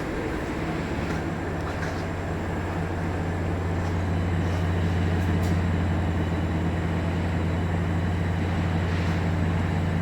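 Steady low mechanical hum, getting slightly louder about four seconds in.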